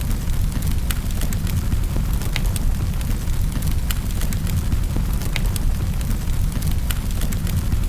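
Wood fire in a fireplace burning with a steady low rumble and irregular sharp crackles and pops, several a second.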